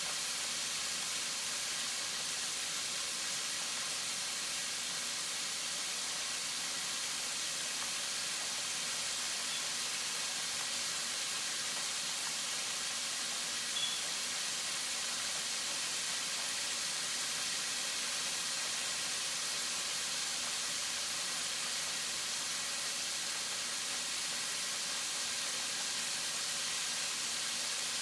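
Chicken wings frying, a steady sizzling hiss with one small pop about halfway through.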